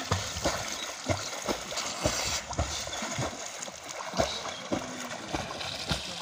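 Water splashing and rushing, with irregular sharp knocks about twice a second.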